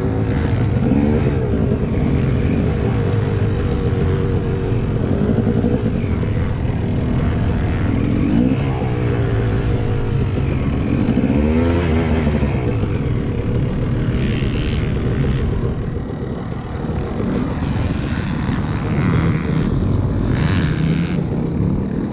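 Two-stroke motocross bike engine, a 2012 KTM 250 SX, being ridden hard around the track, its revs climbing and dropping again and again through the gears.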